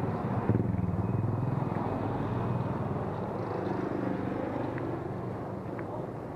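Motorcycle engine running at low road speed, its pitch wavering slightly as the throttle changes.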